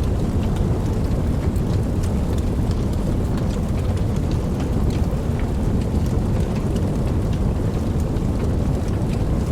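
Steady rainfall, its sound heaviest and deepest in the low range, with scattered sharp drop ticks on top.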